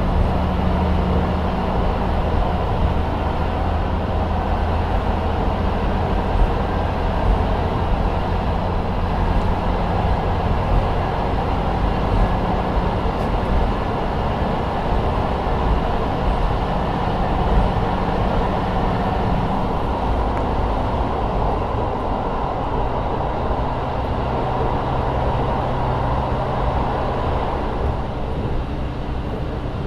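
JR Hokkaido KiHa 40 350-series diesel railcar running on the line, heard from inside the car: its N-DMF13HZB diesel engine drones steadily under the running noise. About two-thirds of the way in, the engine note shifts down to a lower steady tone.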